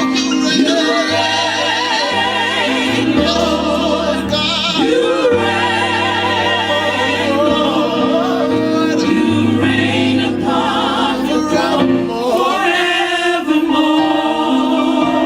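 Gospel choir singing live, voices with wide vibrato over a steady low accompaniment that changes note every second or two.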